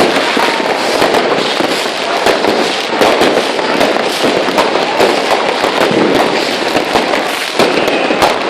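Dense New Year's Eve fireworks and firecrackers: a continuous crackle of many overlapping bangs and pops with no let-up.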